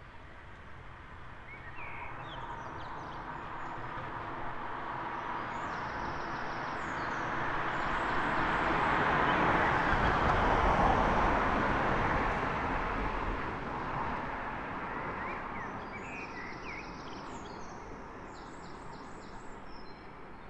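A single road vehicle passes along the street, its tyre and engine noise building steadily, loudest about halfway through, then fading away. Small birds chirp near the start and again near the end.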